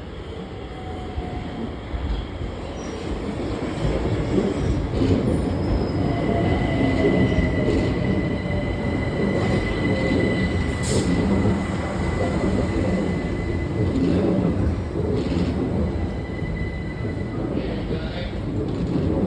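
Southeastern Class 376 Electrostar electric multiple unit arriving and slowing, its rumble growing louder about four seconds in. From about six seconds a steady high-pitched whine or squeal is held until near the end, and over the same first few seconds a lower motor tone falls in pitch as the train slows.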